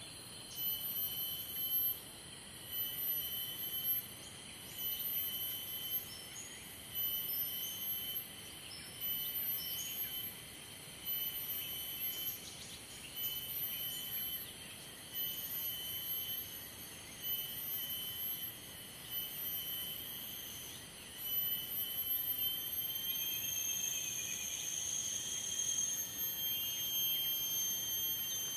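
Crickets and other insects chirping, high-pitched trills pulsing on and off about once a second.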